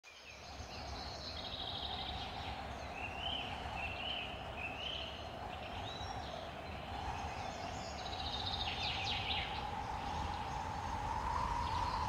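Small birds calling in a winter woodland: a few short rising chirps and a couple of quick trills over a steady background hum.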